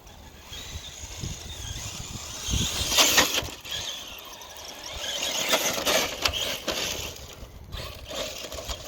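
Radio-controlled Traxxas TRX-4 Sport truck with a brushless electric motor, driving hard up a dirt slope: a motor whine mixed with the tyres scrabbling on loose dirt and grit, loudest about three seconds in and swelling again around five to six seconds.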